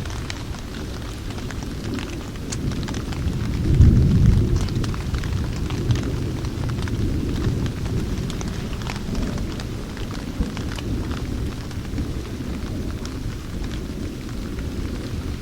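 Rain falling with a low rumble of thunder that swells about four seconds in, scattered raindrop ticks over the top.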